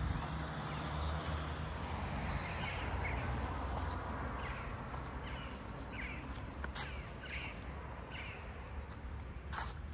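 Birds giving a series of short, harsh calls over a steady low rumble, with a couple of sharp clicks near the end.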